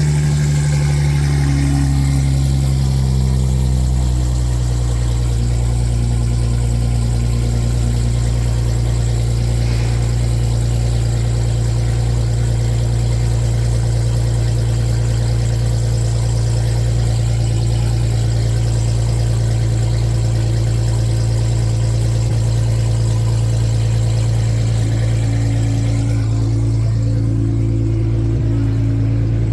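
Car engine running with a steady low drone. Its pitch drops over the first few seconds, then holds steady.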